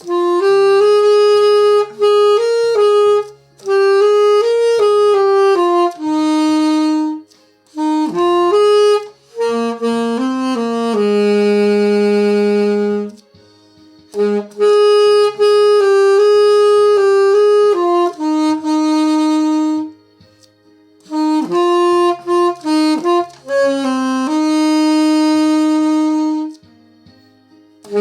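Instrumental music: a saxophone playing a slow melody in phrases, with short breaks between them, over a quiet backing line.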